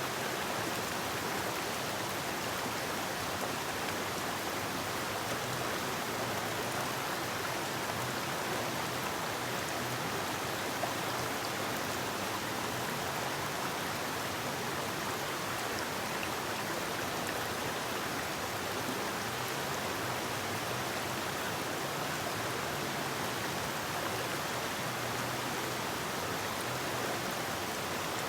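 Forest river flowing: a steady, even rush of water over rocks.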